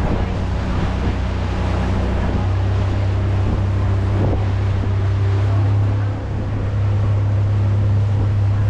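An engine droning steadily at an even pitch, with a rushing noise over it.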